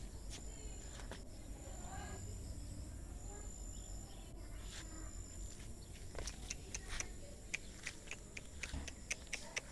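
A high, thin insect trill comes and goes in the background. In the second half come a quick, irregular run of sharp small clicks.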